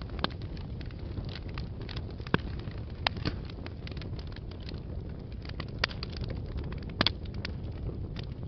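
Wood fire burning in a fireplace: a steady low rumble of flames with frequent irregular crackles and sharp pops, a few louder pops about two, three and seven seconds in.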